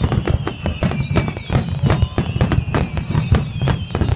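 Fireworks display: a rapid barrage of bangs and crackles, several a second, over a continuous low rumble of shells bursting. A high wavering whistle drifts slowly downward through it.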